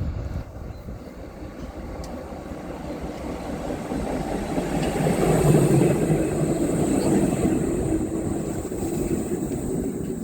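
A train passing, its rumble and hum growing louder about halfway through and staying loud.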